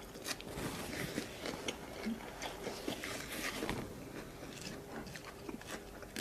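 Close-miked eating sounds: a person chewing food with many irregular wet mouth clicks and lip smacks.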